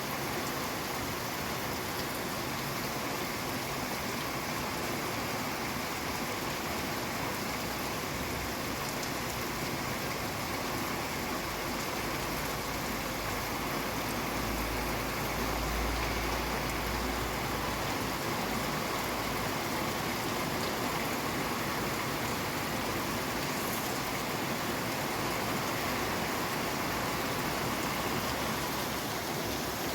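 Steady rain falling, an even hiss of many drops. There is a brief low rumble about halfway through.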